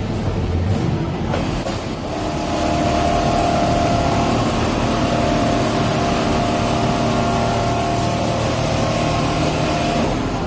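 Automatic template CNC sewing machine running steadily, with a mechanical hum. It gets louder about two seconds in and eases off near the end.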